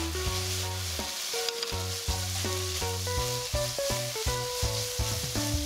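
Ground pork sizzling in a hot nonstick frying pan as it is stirred and turned with a spatula, its water being fried off. Background music with held notes plays over it.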